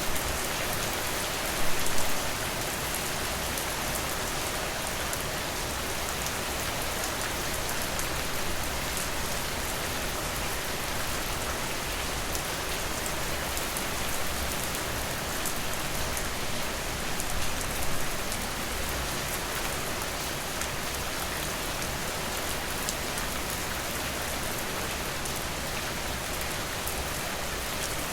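Steady rain falling in an even hiss, briefly louder twice, about two seconds in and again a little past the middle.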